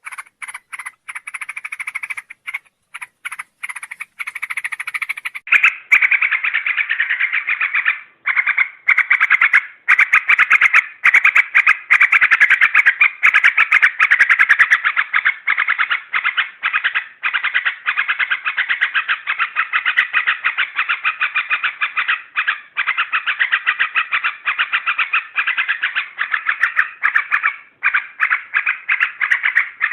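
Trucuk bulbul lure call: rapid, repeated bubbling notes, spaced at first and then a dense, continuous chattering from about five seconds in, with a few brief breaks.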